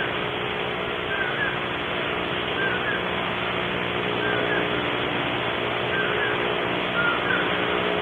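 A bird calling short chirps, often in quick pairs, repeated about every second or so, faint over a steady background hum and hiss.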